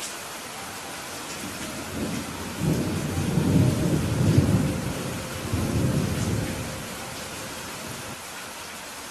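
Steady rain falling, with a low rolling rumble of thunder that builds about two and a half seconds in, swells twice, and fades away a few seconds later.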